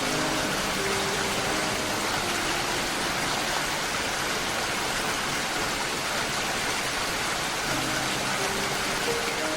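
Steady, even rain noise. Soft, held music notes play over it for the first two seconds and come back near the end.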